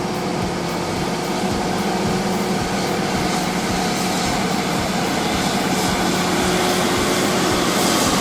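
Heavy machinery engine running steadily, growing slightly louder toward the end.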